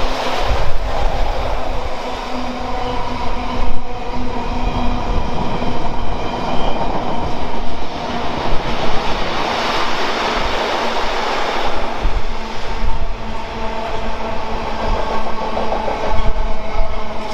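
Southbound intermodal freight train of loaded container wagons rolling past steadily: the continuous rumble and rolling noise of the wagon wheels on the rails.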